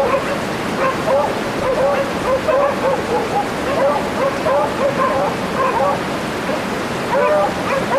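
Several stray dogs barking repeatedly at a wild boar, a few short barks a second without pause, over a steady rushing background noise.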